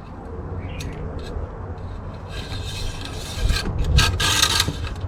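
Metal-on-metal rasping scrapes, two longer strokes about two and four seconds in, as the oil dipstick is slid back into its tube.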